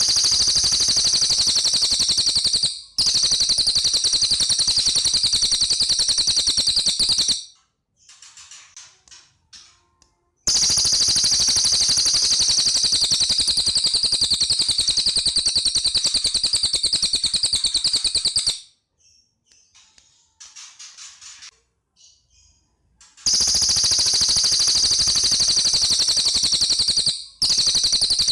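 Cililin bird singing in long, high-pitched trills of very rapid notes, each running several seconds. Short breaks between them hold a few softer scattered notes.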